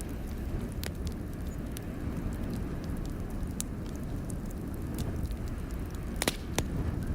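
Wood fire in a fireplace crackling, with scattered sharp pops and a quick cluster of louder pops about six seconds in, over a steady low rumble.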